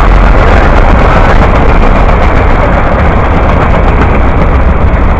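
Freight train's boxcars and tank cars rolling past close by: a loud, steady rumble of steel wheels on the rails.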